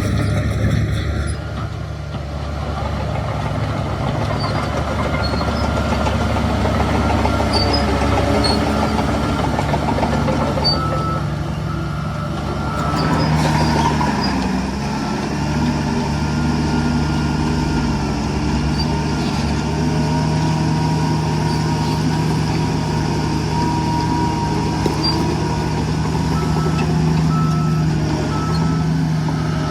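Heavy diesel construction machinery running steadily, a deep engine drone throughout. A brief tone cuts off about a second in, and a reversing alarm beeps at an even pace near the end.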